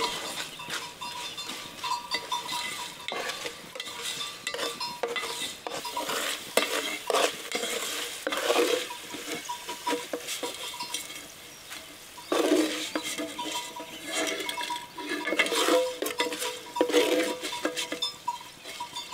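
Thin potato straws frying in oil in an aluminium pot, sizzling, while a wooden spatula stirs them, scraping and knocking against the metal pot.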